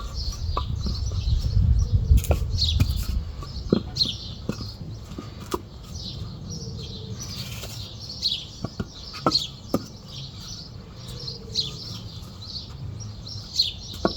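Small birds chirping over and over, with a few sharp knocks scattered through and a low rumble in the first few seconds.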